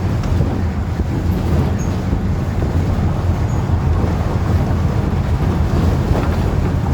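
Wind buffeting a handheld microphone in a steady low rumble, over the wash of the sea on the shore.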